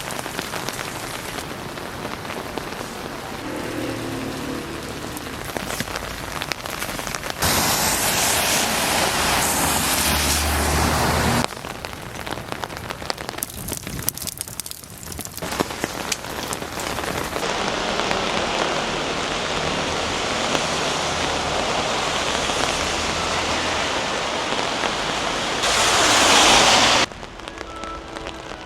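Steady spring rain pattering, heard from under an umbrella. The rain noise jumps abruptly louder or softer several times, loudest in a brief stretch near the end.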